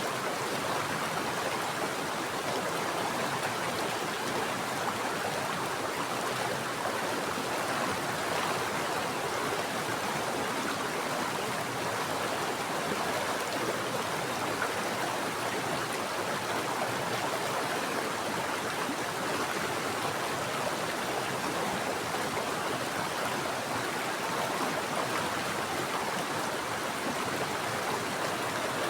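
Mountain stream water running steadily over rocks, an even rushing with no breaks.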